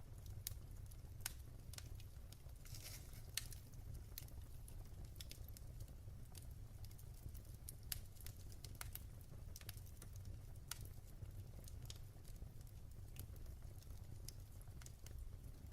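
Wood fire in a fireplace crackling quietly: scattered sharp pops and snaps, one or two a second, over a steady low rumble.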